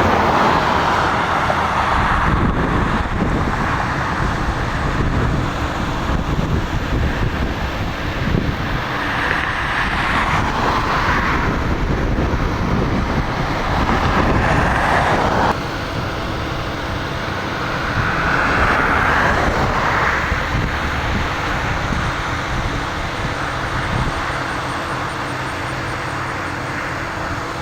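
Strong wind and heavy rain buffeting a vehicle, mixed with vehicle and road noise. The wind swells and fades in gusts every few seconds, and the whole sound drops abruptly about halfway through.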